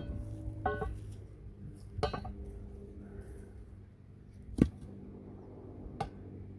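Metal clinks and clanks of steel equipment being handled: a short ringing clank less than a second in, a rattling clank about two seconds in, a sharp knock near the middle that is the loudest, and a lighter one about six seconds in, over a steady low hum.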